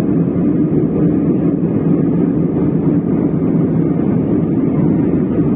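Airliner cabin noise in cruise flight: a steady, even rush of engine and airflow noise.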